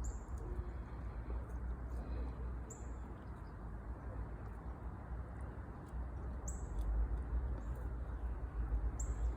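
A small bird gives a short, very high chirp four times, a few seconds apart, over a steady low outdoor rumble.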